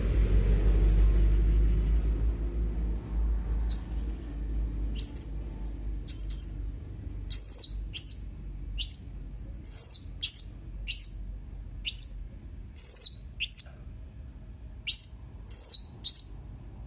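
Blue-crowned hanging parrot (serindit) calling with very high, thin chirps: two short trills in the first few seconds, then a run of sharp single and paired notes, roughly one or two a second. A low rumble starts with the calls and fades away over the first three seconds.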